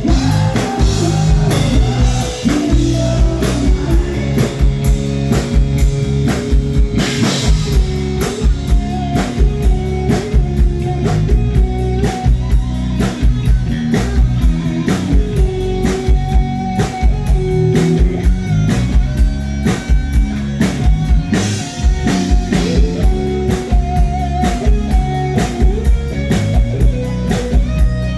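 Live rock band playing an instrumental passage: a drum kit keeping a steady beat under guitar, with a sustained melody line wandering above.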